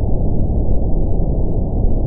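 Brown noise: a steady, deep rumbling hiss, its energy heaviest at the bottom and nothing above the low-middle range.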